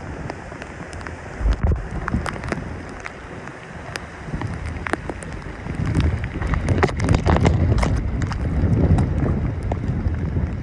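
Hurricane wind buffeting the microphone in gusts, with scattered sharp clicks and taps. The rumble grows stronger about six seconds in.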